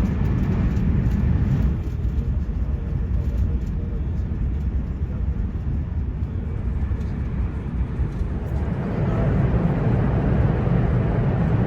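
Steady low rumble of a Ouigo high-speed train running at speed, heard from inside the passenger car; it grows a little louder about nine seconds in.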